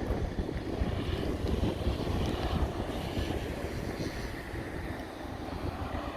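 Jet airliner engines heard at a distance, a steady rumble and hiss, with wind buffeting the microphone; the sound eases slightly toward the end.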